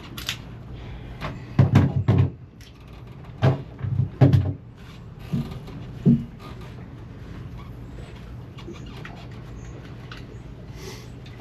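Tools and parts being handled on the engine: a handful of short knocks and clatters in the first half, then quieter fiddling, over a steady low hum.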